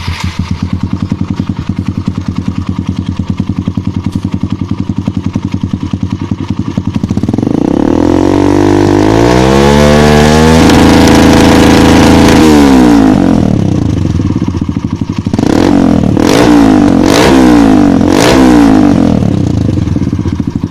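Kawasaki KLX single-cylinder engine run through a Triton CR-5 stainless-steel aftermarket full-system exhaust: idling, then revved up in one long climb and held high for a few seconds before dropping back. Near the end the throttle is blipped four quick times before it settles back to idle.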